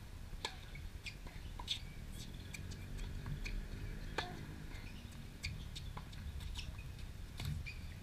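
Birds chirping in short scattered calls over a steady low rumble, with one sharp knock about four seconds in.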